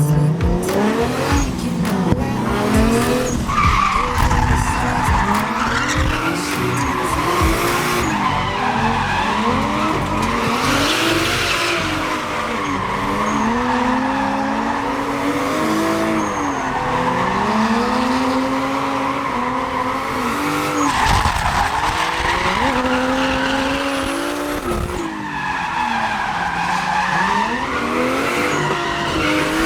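Toyota 1UZ 4.0-litre V8 in a drift car revving up and down again and again as it holds slides, with tyres squealing across the pavement.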